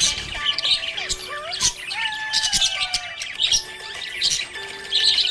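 Budgerigar chirping and chattering, a fast run of short high chirps.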